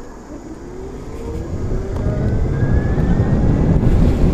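Zero SR electric motorcycle pulling away and accelerating: the motor's whine climbs steadily in pitch. Wind noise builds up under it and grows much louder from about halfway through.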